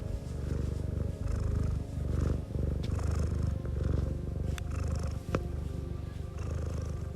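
Domestic cat purring close up, a steady low rumble that pauses briefly about every second between breaths, with a few faint clicks and soft background music.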